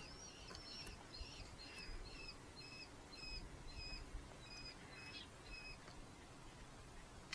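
Red-footed falcon giving a faint series of short, even calls, about two to three a second, which stops about six seconds in.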